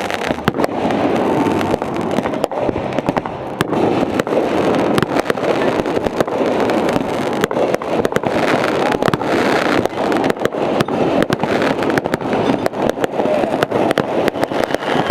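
Aerial fireworks bursting: a constant run of sharp bangs and crackles, coming faster and thicker in the last few seconds.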